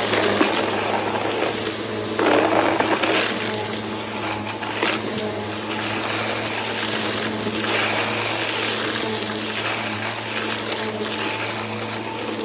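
Bissell vacuum cleaner running with a steady motor hum, pushed quickly back and forth, its rushing suction noise swelling and fading with each stroke.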